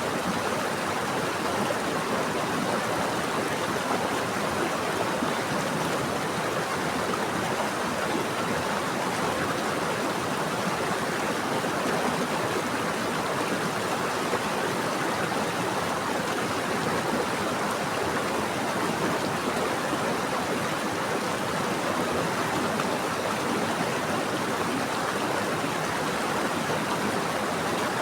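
Steady flowing water of a stream or river, a continuous rushing and burbling with no change in level.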